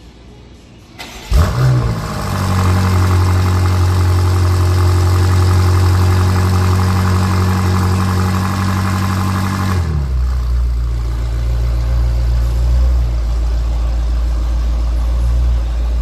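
BMW M5's 4.4-litre twin-turbo V8 cold-starting: it cranks and catches with a sharp flare about a second in, then holds a loud, steady high cold idle. About two-thirds of the way through, the idle drops suddenly to a lower, deeper note.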